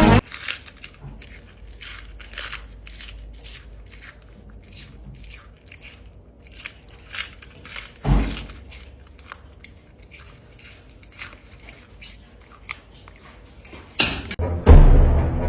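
Close-up crunching and chewing: irregular crisp crunches, with one heavier thump about eight seconds in. Music comes back in near the end.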